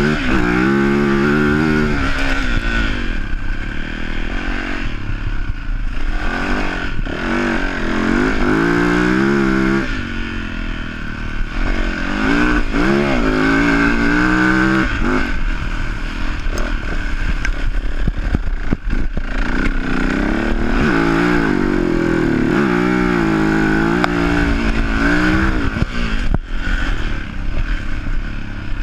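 Yamaha enduro motorcycle engine revving up and easing off again and again as the bike is ridden hard, heard from on the bike, with scattered knocks and rattles from the bike over rough ground.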